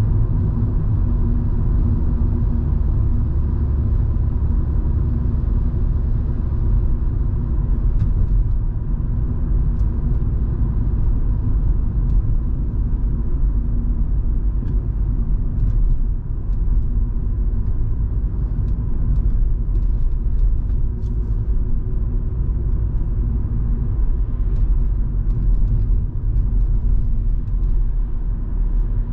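Volvo V70 2.5T on the move: its turbocharged five-cylinder engine and road noise make a steady low rumble, with faint scattered ticks over it.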